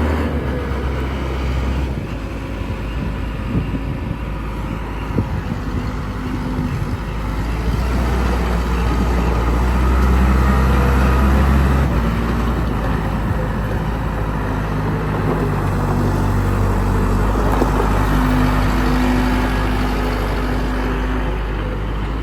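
2000 Case 580L loader backhoe's diesel engine running under operation, its engine speed changing several times: dropping about two seconds in, coming up again about twelve seconds in, with a higher note rising near the end.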